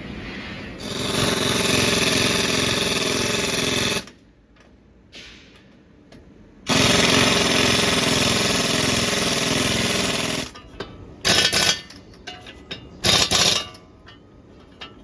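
Pneumatic impact wrench hammering in two long runs of about three seconds each, then two short bursts, driving the bolts that fasten a truck's replacement leaf spring.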